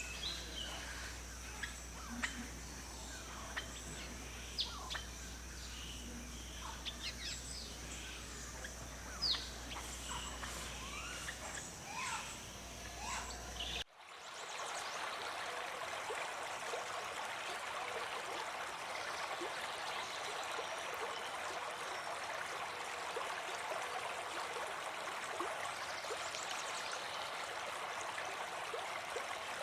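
Birds calling with scattered short chirps and whistles over a low steady hum. About halfway through, the sound cuts abruptly to the steady rush of a flowing stream.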